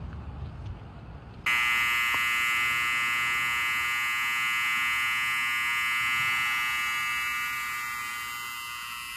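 Low wind rumble, then about a second and a half in a loud, steady electronic buzzing alarm tone starts abruptly and holds without change.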